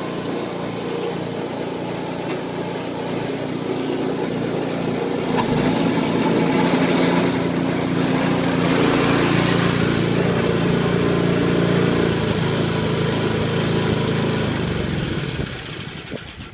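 Snowblower's small gasoline engine running steadily, louder through the middle stretch, then slowing and stopping just before the end. The owner thinks its carburetor needs a rebuild.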